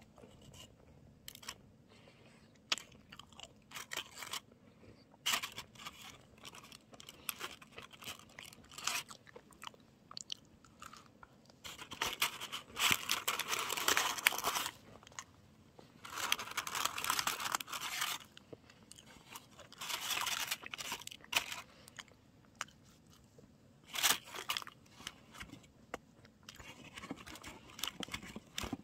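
Close-up chewing and crunching of a macaron: scattered crisp clicks at first, then longer, denser bouts of crunching through the middle.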